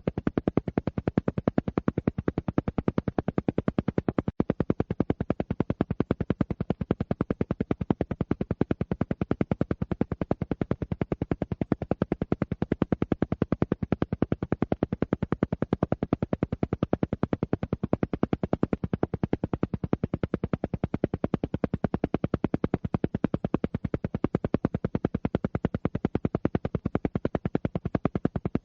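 Alpha-wave isochronic tone for brainwave entrainment: a low tone pulsing on and off rapidly and evenly, many times a second, with one brief dropout about four seconds in.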